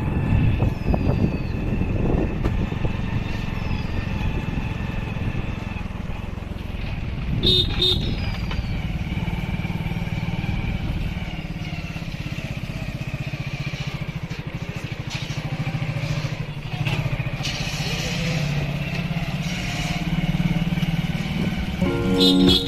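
Motorcycle engine running steadily while riding, with rough wind rumble. A vehicle horn honks briefly near the end.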